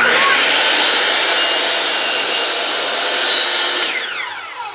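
Craftsman power saw cutting through a cedar fence picket, a loud, steady whine of blade in wood that starts abruptly. A little before the end the cut finishes and the motor winds down with a falling pitch.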